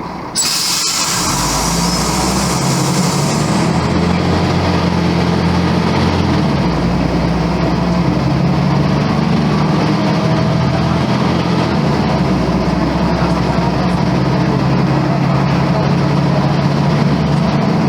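Volvo B10M bus's diesel engine running under way, loud and steady, its pitch shifting in steps a few times.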